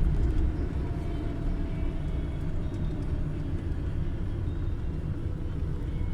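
Car noise heard from inside the cabin: a steady low rumble with a faint tone that falls slowly.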